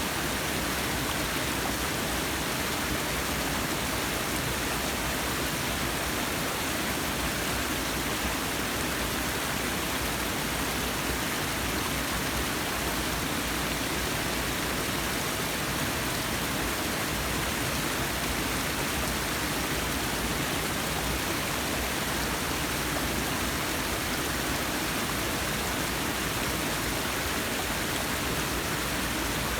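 Forest waterfall: water falling and rushing in a steady, unbroken roar.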